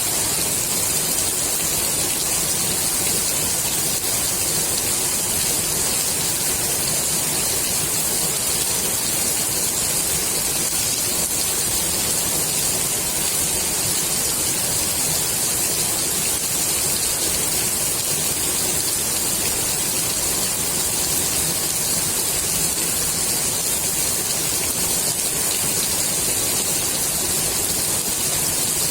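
Steady rain falling on a swimming pool's water surface: an even, unbroken hiss of drops that neither builds nor eases.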